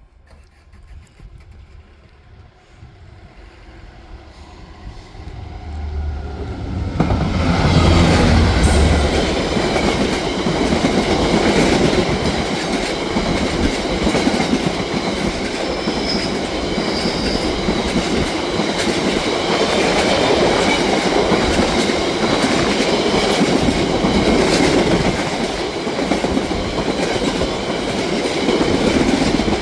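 A train approaching and passing over a level crossing: it grows louder over the first seven seconds, then its wheels run loud and steady over the rails, with a rapid clickety-clack of ticks, until the end.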